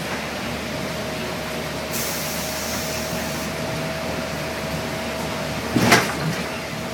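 Cabin noise of a 2007 New Flyer D60LFR articulated diesel bus on the move in the rain: a steady rumble of engine, tyres and rain with a faint steady whine. About six seconds in there is a single sharp thump or knock.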